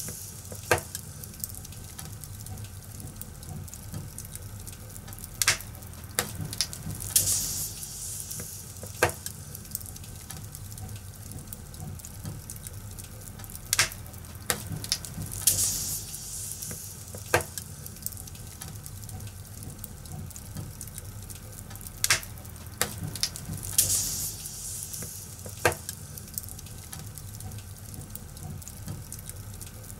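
A fire crackling: a steady low rumble and hiss, with sharp pops every few seconds and short bursts of high hissing. The same run of pops and hisses repeats about every eight seconds.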